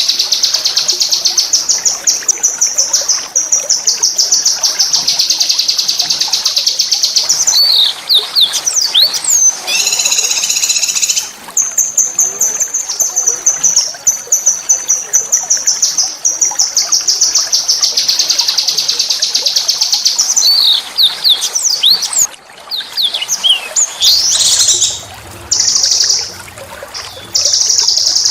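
Small songbird singing long, very fast, high-pitched rolling trills, broken by a few swooping whistled notes and a harsher, buzzy phrase about ten seconds in; the song turns choppier with short pauses near the end.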